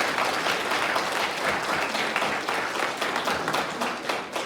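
Audience applauding, many hands clapping steadily and beginning to thin out near the end.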